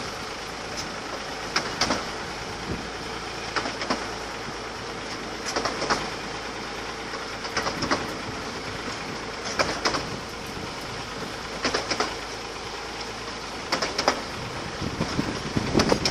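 15-inch gauge miniature railway train running along the track: steady rolling noise, with a short clatter of the wheels over rail joints about every two seconds.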